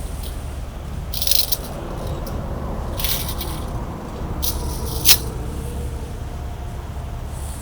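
Steady low rumble of idling heavy trucks, with several short metallic rattles and scrapes, the sharpest about five seconds in.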